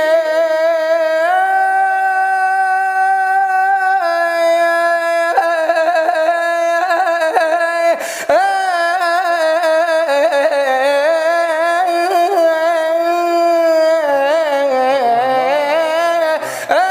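A nasheed chanter's solo voice drawing out long, ornamented notes on vowels, held steady at first and then wavering and sliding. There is a short break with a click about halfway through.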